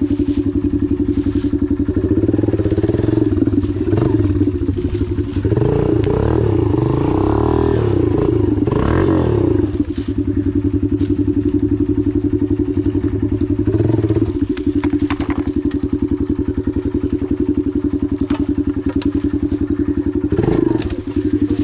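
Dirt bike engine idling steadily. For several seconds early on, engine notes rise and fall as revs change, before it settles back to a steady idle.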